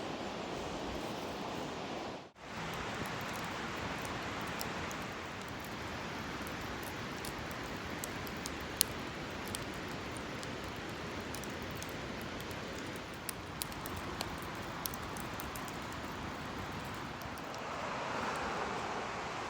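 Steady rushing of a flowing mountain stream, with scattered sharp clicks in the middle.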